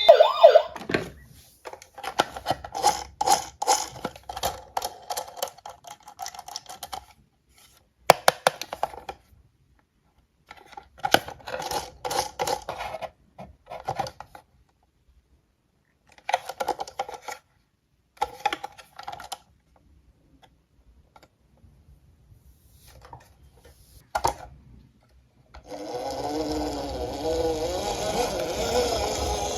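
Small die-cast toy cars clattering, in several bursts of rapid clicks and rattles with quiet pauses between. Near the end a steady wavering sound comes in.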